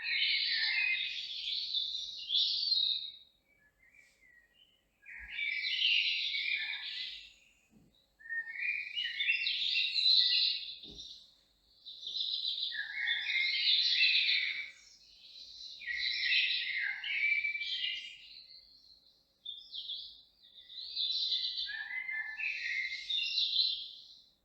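A songbird singing, in about six rapid, warbling phrases of two to four seconds each, separated by short pauses.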